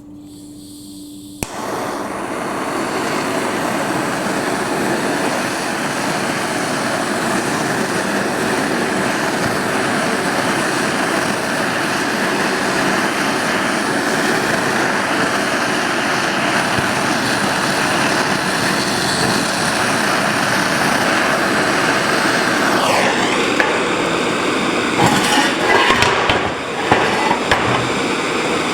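Gas torch running steadily as it heats a damaged oil pan, with several sharp metal knocks near the end as the pan is hammered out.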